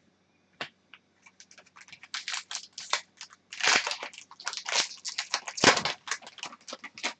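Plastic trading-card pack wrapper crinkling and tearing as it is ripped open and handled: a dense run of crackles starting about a second in, loudest in two bursts near the middle and later on.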